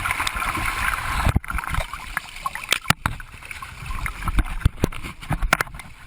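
Sea water splashing and sloshing around people afloat after a plane ditching, with frequent sharp knocks and low rumble on the phone's microphone.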